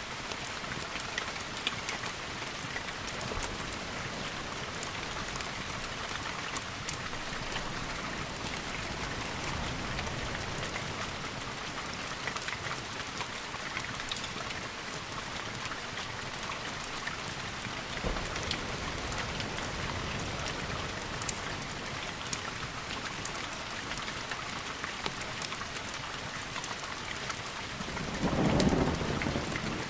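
Steady rain ambience with scattered sharp little ticks throughout. Near the end comes a short, louder low rumble of thunder.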